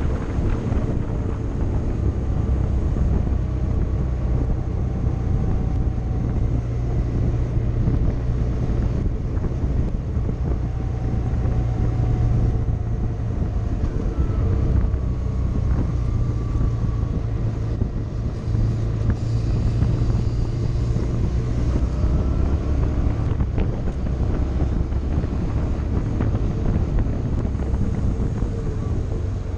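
Motorcycle engine running while riding, its pitch rising and falling slightly with the revs, with wind noise buffeting the microphone.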